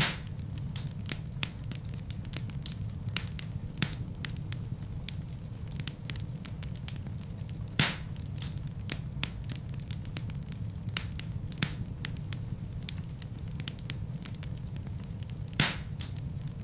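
Wood fire in a fireplace crackling, with frequent small snaps over a steady low rumble of flames and a few louder pops: one at the start, one about halfway through and one near the end.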